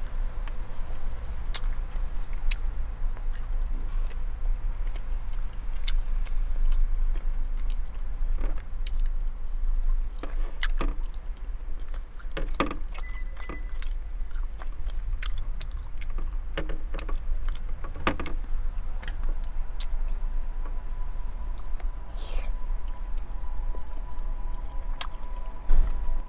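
Mouth sounds of chewing and eating, with scattered sharp clicks of a plastic fork against a plate, over a steady low rumble inside a car.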